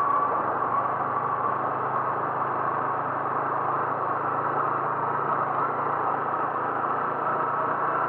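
A vehicle's engine running steadily, a constant low hum under an even wash of noise that does not change.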